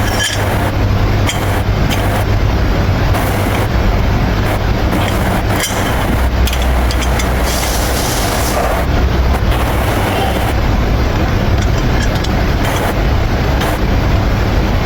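Steady loud rumbling noise with a constant low hum, broken by a few short clicks and knocks.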